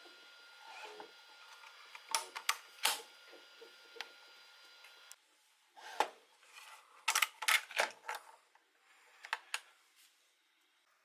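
Hard plastic parts clicking and clacking as they are handled, in several clusters of sharp clicks, over a faint steady hum that stops abruptly about five seconds in.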